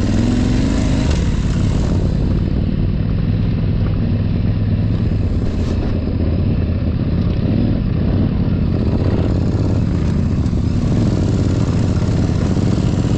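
Parallel-twin adventure motorcycle engine running steadily while riding off-road.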